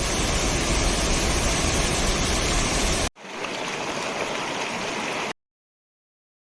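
Steady rush of a river waterfall in two takes: a loud one with heavy low rumble, cut off about three seconds in, then a quieter, thinner one. The sound drops to dead silence about five seconds in.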